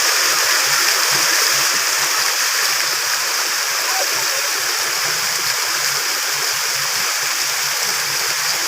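Waterfall running steadily: an even, unbroken hissing rush of falling water.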